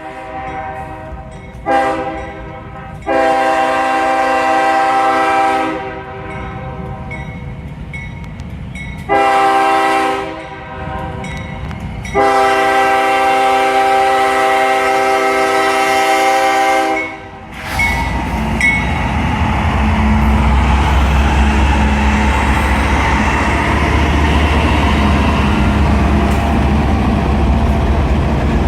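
Freight train diesel locomotive sounding its multi-tone air horn in several blasts, two of them long, the last one the longest. After that the locomotive comes by close, its engine and wheels making a loud steady rumble.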